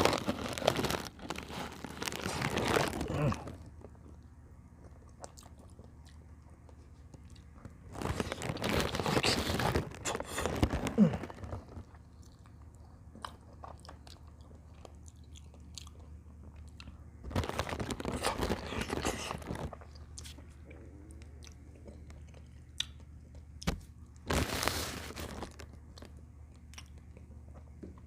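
Close-miked eating sounds of someone eating camel bulalo with bone marrow: chewing and biting. The noise comes in four louder spells a few seconds long, about seven to nine seconds apart, with small mouth clicks in between.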